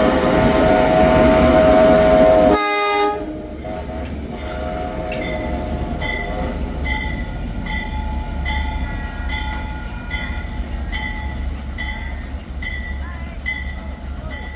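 A departing locomotive-hauled train sounds a long, loud blast on its horn or whistle, which cuts off suddenly a couple of seconds in. The train then rolls on with a steady low rumble and regular clicks of wheels over rail joints, under two a second.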